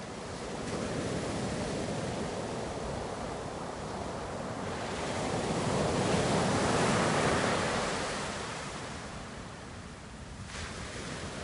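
Ocean waves breaking on the shore: a rushing surge that builds to its loudest about halfway through, then washes back and fades, with the next wave starting to rise near the end.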